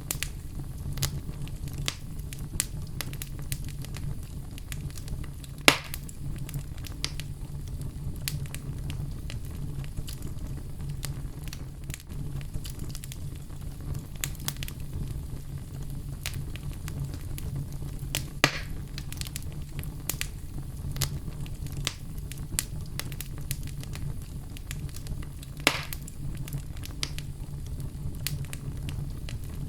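Oak logs burning in a fireplace: a steady low rumble of the flames with constant small crackles, and three louder pops spread through the stretch.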